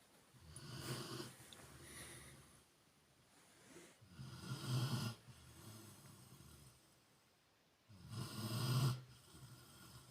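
A sleeping Rottweiler snoring: three slow snores about four seconds apart, the last the loudest.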